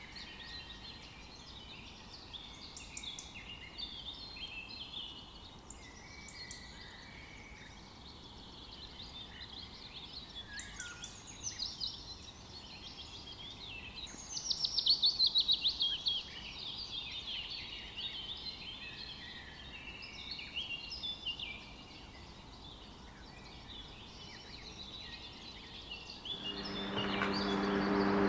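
Many small birds chirping and twittering, with a loud rapid trill about fourteen seconds in. Near the end a louder held, pitched tone swells in.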